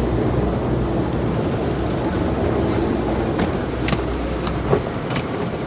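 Automatic car wash running around the car, heard from inside the cabin: a steady low rumble of machinery and water, with several sharp slaps and knocks against the car body in the second half as the heavy wash strips strike it.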